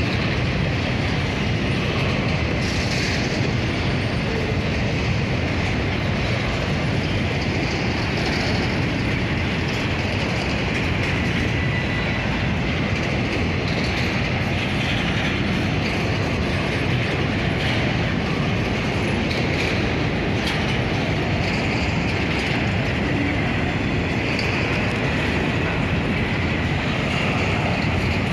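Freight train rolling past, a steady rumble and clatter of wagon wheels on the rails.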